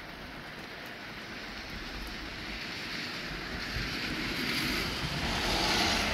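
Rain shower falling, with a rushing noise that builds over several seconds and peaks near the end.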